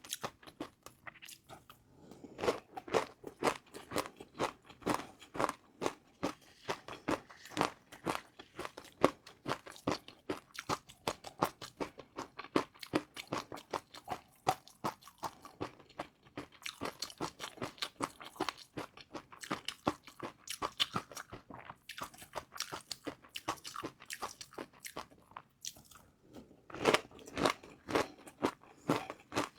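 Close-miked chewing of crispy fried noodles: dense, irregular crunching bites. The crunching runs steadily, with a louder cluster of crunches near the end.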